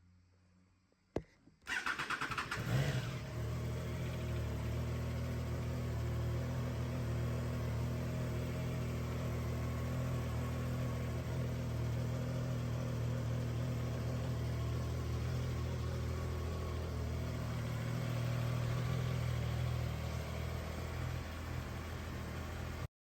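Triumph Tiger Sport 660's three-cylinder engine being started: a click, a short spell of starter cranking, a quick flare as it catches, then a steady idle that cuts off suddenly near the end.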